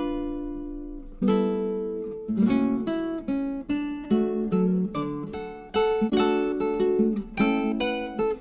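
Background music: acoustic guitar playing plucked notes and strummed chords, the first chord left ringing for about a second before the playing picks up again.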